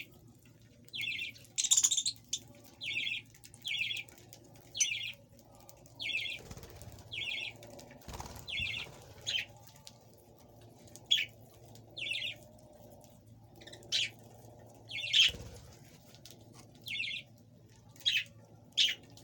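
Pet birds chirping: a short call repeated about once a second, with a few louder, sharper chirps scattered among them.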